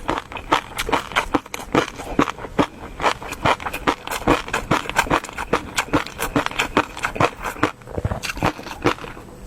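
Close-miked eating: chewing and mouth smacks as a run of short, wet clicks, several a second and irregular, with a brief lull near the end.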